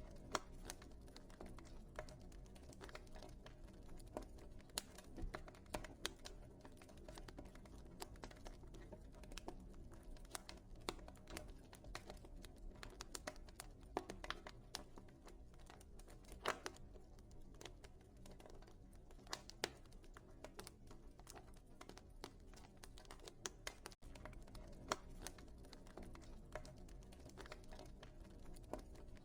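Wood fire burning in a fireplace, crackling with irregular sharp pops of varying strength over a soft low rumble of the flames.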